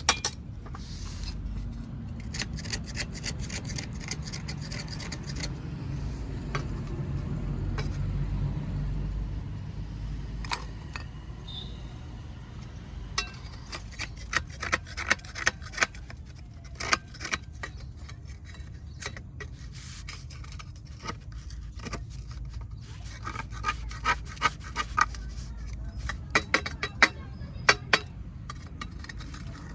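Baked-clay kulhad cups being crunched and broken, with scraping and rubbing of the clay between the cracks. The cracks come in two dense runs, one about halfway through and one near the end.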